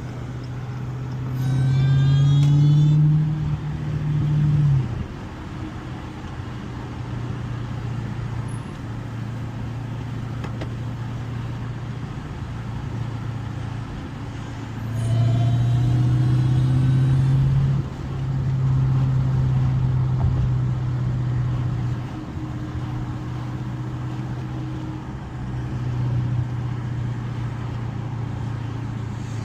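Supercharged 6.2-litre HEMI V8 of a 2015 Dodge Challenger SRT Hellcat with a manual gearbox, running while driving. It grows louder under throttle about two seconds in and again around fifteen seconds, with brief dips between the pulls.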